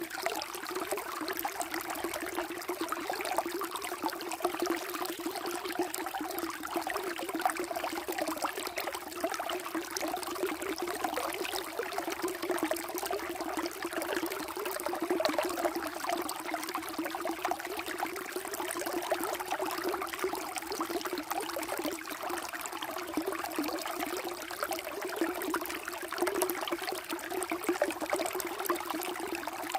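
Flowing water running steadily, a continuous trickling rush with no breaks.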